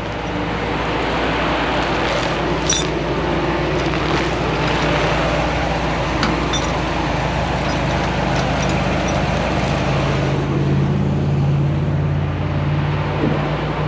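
Truck engine running steadily, its low hum growing louder about ten seconds in, with a few light clicks over it.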